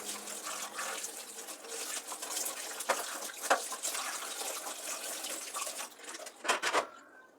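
Water running from a tap, with a few sharp knocks of items being handled in the sink; the flow dies away near the end.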